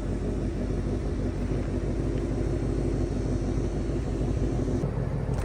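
2022 Ford Mustang GT's 5.0-litre V8 running at a steady idle through long-tube headers and active exhaust, an even, low rumble.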